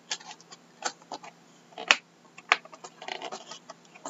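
Trading-card hobby box and its wrapped packs being handled, with a string of separate taps and clicks, the loudest a little under two seconds in, and a stretch of crinkling wrapper around three seconds in.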